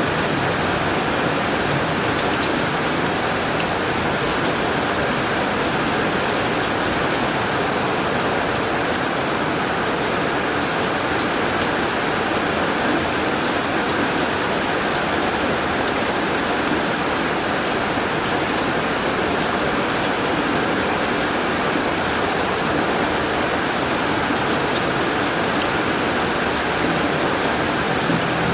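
Heavy rain falling steadily on a tin roof: an even hiss with scattered sharp ticks of single drops.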